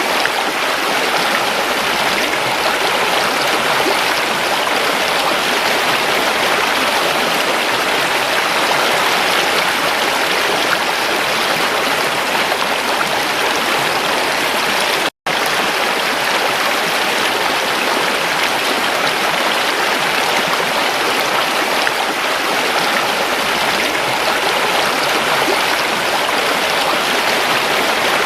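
Creek water running steadily over rocks, an even rushing sound, with a split-second dropout to silence about halfway through.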